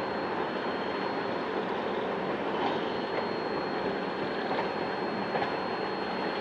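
Passenger express train running, heard from on board: a steady rush of wheel and rail noise from the moving coaches, with a faint steady high whine.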